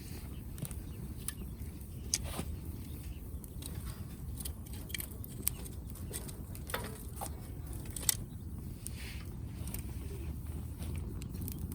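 Firewood burning in a campfire stand, crackling with scattered sharp pops over a low, steady rumble.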